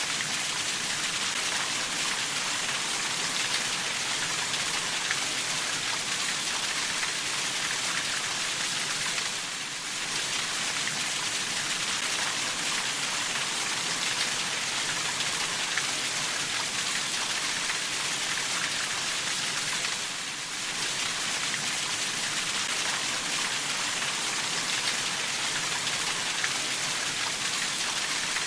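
Steady rainfall, a dense even patter of drops, that briefly eases twice: about a third of the way through and again about two-thirds through.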